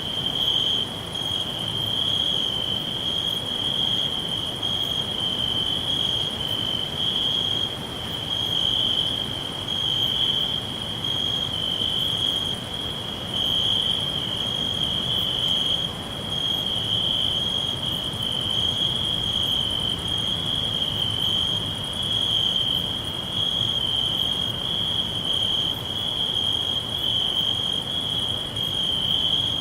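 Crickets chirring in a continuous high-pitched chorus with a slight pulsing, over a faint low rumble of background noise.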